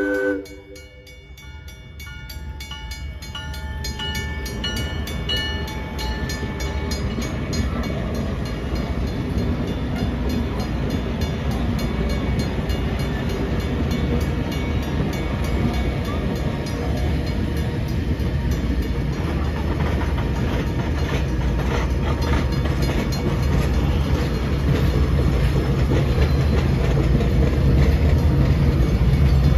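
Diesel excursion train approaching. Its horn cuts off about half a second in, then a low engine rumble and wheel noise grow steadily louder, with a fast, regular ringing over them.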